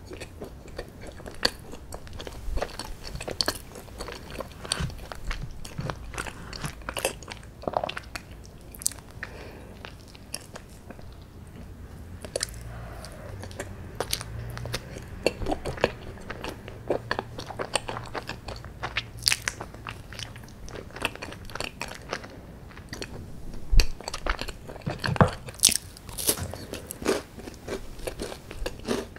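A person chewing and biting chocolate brownies and chocolate, with many sharp wet mouth clicks and smacks, and a few louder crunchy bites near the end.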